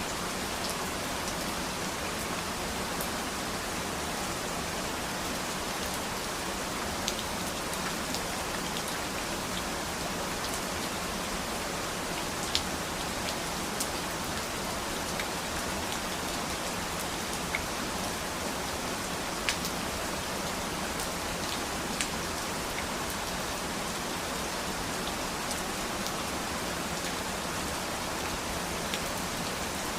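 Steady rain falling, an even hiss of rain on a surface with scattered sharper drop ticks.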